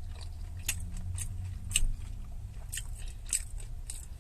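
Close-up chewing and biting of a breaded, deep-fried steak finger, with irregular crunchy clicks several times a second, over a low steady rumble.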